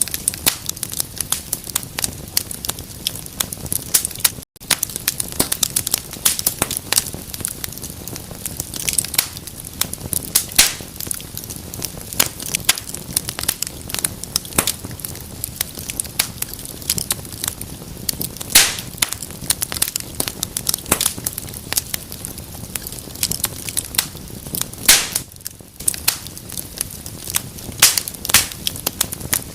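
Wood fire crackling in a fireplace: a steady hiss of flames with constant irregular snaps and pops, a few louder pops in the second half. The sound cuts out for an instant about four and a half seconds in.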